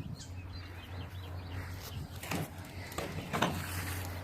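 Faint chirps from a bird trapped in a gutter downspout, then two knocks about a second apart, over a steady low hum.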